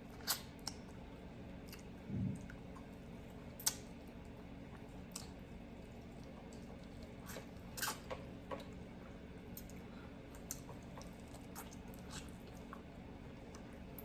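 People chewing food close to the microphone, with scattered small clicks and smacks of eating over a steady low hum.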